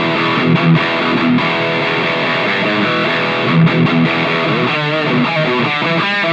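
Electric guitar played through a combination pedal with its overdrive and distortion modules both on, the overdrive boosting the distortion, giving a thick, heavily distorted tone. It plays sustained chords and notes, with wavering bent notes near the end.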